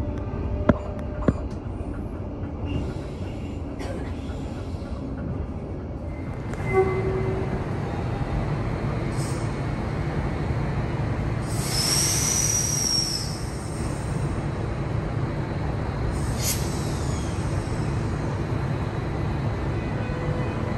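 Brisbane suburban electric train running along the track, heard from on board: a steady low rumble with two sharp clicks near the start and a brief high wheel squeal about twelve seconds in.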